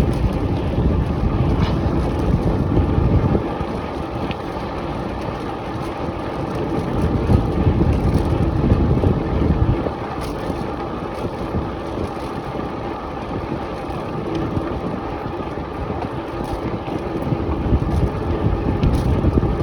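Wind rushing over the microphone of a bike rider moving at speed, mixed with road rumble. It swells and eases in gusts every few seconds.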